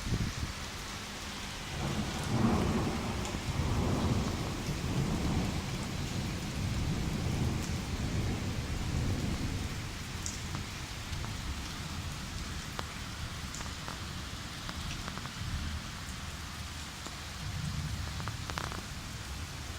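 Steady rain falling through a thunderstorm, with a long roll of thunder that starts about two seconds in and rumbles away over the next several seconds.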